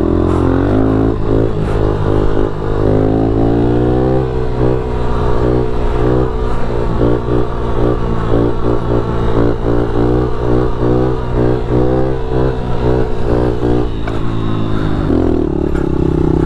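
Pit bike's small engine running while being ridden, its pitch rising and falling with the throttle, with a change in engine note near the end.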